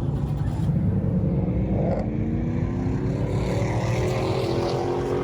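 A car engine pulling hard under acceleration, its pitch climbing steadily for about four seconds over a deep rumble, then turning down right at the end. It is a car doing a pull-off, launching away from a car meet.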